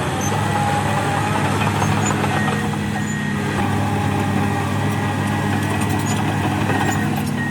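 Heavy diesel earthmoving machinery running steadily: a deep, even engine note with a steady higher whine above it and a few faint high squeaks.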